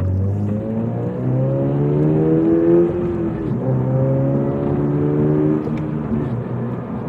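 2022 Subaru BRZ's 2.4-litre flat-four running through an OTL header and single-exit catback exhaust under hard acceleration. The revs climb, fall at a gear change about three seconds in, climb again, and fall at another shift about six seconds in.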